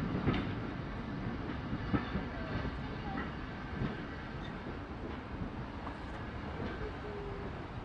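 Train rolling along the track: a low rumble with occasional clicks of wheels over rail joints, slowly easing off.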